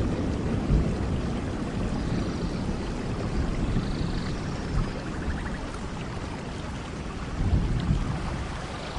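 Steady tropical rain with a low rumble underneath, and a few faint bird calls: short high chirps, and a quick trill about five seconds in.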